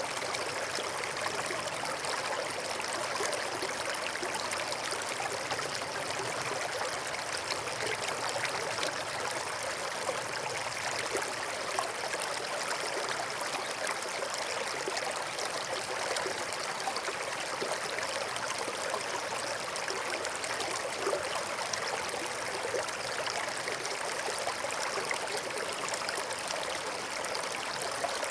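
A stream flowing steadily, a continuous babble of running water with no breaks or separate events.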